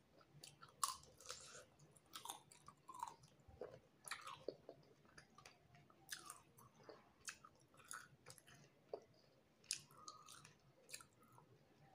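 Faint eating sounds of a person chewing with the mouth: a scattered run of short clicks and smacks.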